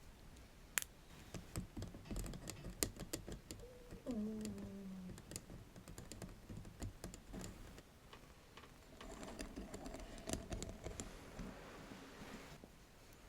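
Irregular close-up tapping and clicking on small hard objects, like typing, with a brief squeak about four seconds in.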